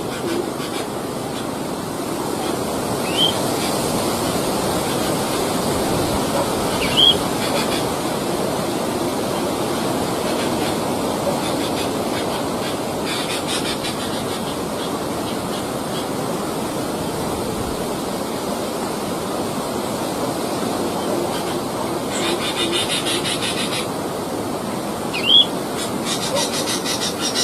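Steady wind-like rushing. Three short rising bird chirps come through about 3, 7 and 25 seconds in, and there are stretches of insect buzzing about halfway through and near the end.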